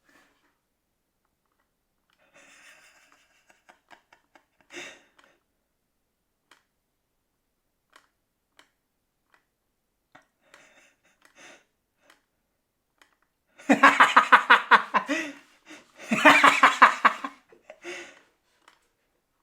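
Mostly quiet, then a person laughing hard in two long bursts of rapid pulses past the middle, with a short burst of laughter near the end.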